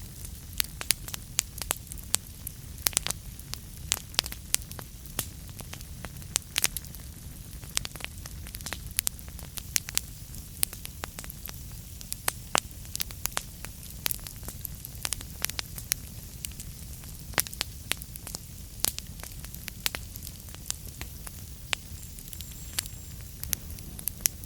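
Wood fire burning in a fireplace, with a steady low rumble of flames and frequent irregular sharp crackles and pops.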